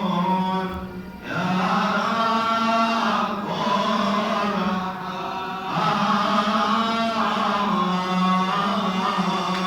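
A man's voice chanting a long, drawn-out melisma in Coptic liturgical style, sustained notes with a short break for breath about a second in.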